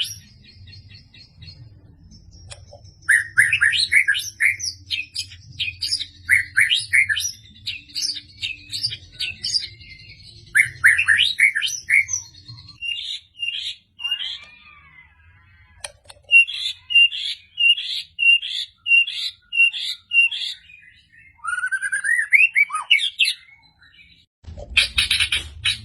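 White-rumped shama singing a varied song of whistled phrases and fast strings of sharp repeated notes, with short pauses between phrases. Near the end, a brief loud rustling noise.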